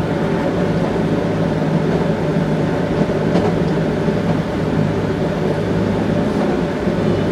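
Toei 5300 series subway train heard from inside the car while running: a steady rumble of wheels on rail with a steady low hum underneath.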